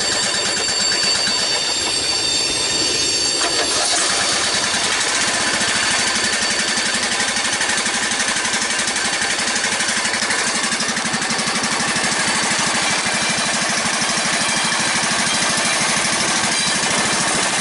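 Small gasoline engine running with a fast, steady clatter on a cold morning start; its sound changes about four seconds in.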